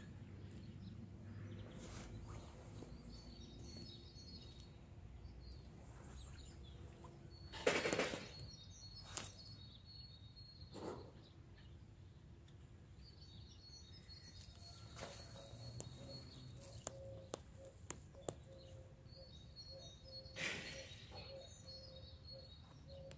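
Faint background noise with small birds chirping on and off, and a brief loud rush of noise about eight seconds in and again about twenty seconds in.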